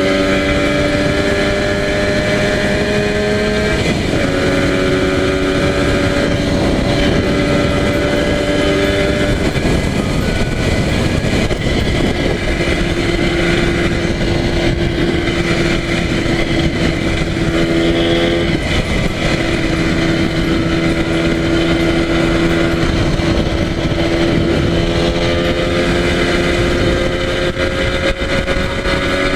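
Yamaha TZR250 1KT two-stroke parallel-twin engine running at expressway speed under heavy wind rush. Its note climbs slowly, dips suddenly about four seconds in and changes again around twelve and eighteen seconds in.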